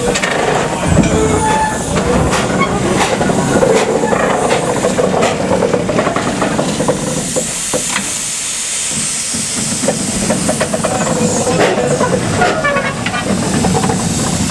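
Small steam locomotive on a light railway moving slowly, with steam hissing and short clanks and knocks. The hiss grows stronger about halfway through.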